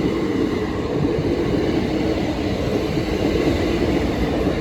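Class 375 Electrostar electric multiple unit passing at the level crossing: a steady, unbroken running noise of wheels on rail.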